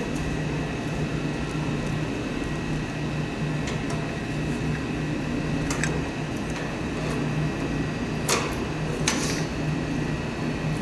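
Steady machine hum, with a few sharp clicks about eight and nine seconds in.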